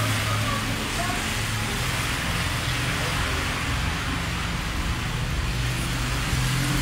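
Road traffic: a steady hiss with the low hum of a vehicle engine running.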